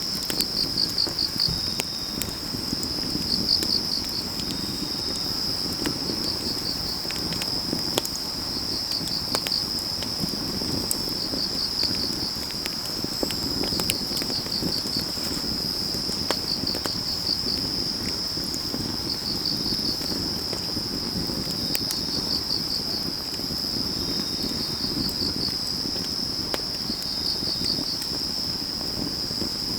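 Autumn crickets trilling steadily, with bursts of pulsed chirps every couple of seconds, over a crackling wood fire with scattered sharp pops.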